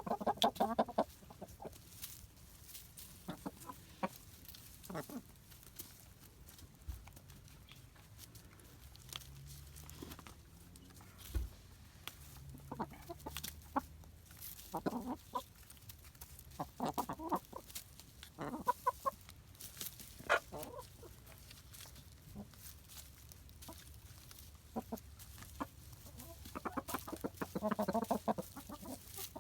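Buff Orpington hens clucking in short, scattered calls, with faint clicks in between, while they hunt crickets.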